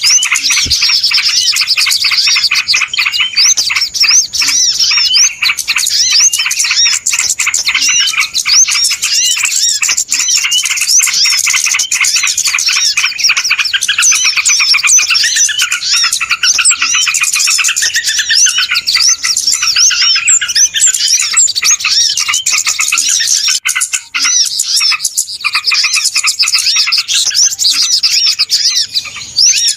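A dense, noisy chorus of many small birds chirping and twittering over one another without pause: a bird-lure (pikat) recording played to attract birds.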